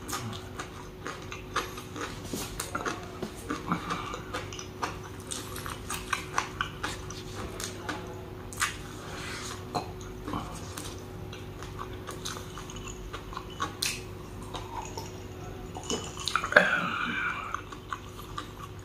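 Close-up eating sounds: a person chewing mutton adobo and rice, with many small wet mouth clicks and smacks. A louder stretch of mouth noise comes about sixteen seconds in, over a faint steady hum.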